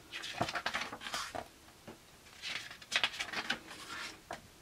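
Pages of a hardback graphic novel being turned by hand: two bursts of paper rustling and flapping, one at the start and one about halfway through.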